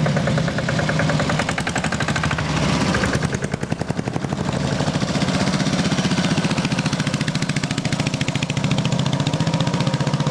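Vintage motorcycle engine running with a rapid, even firing beat; it briefly drops about three and a half seconds in, then picks up again and runs on.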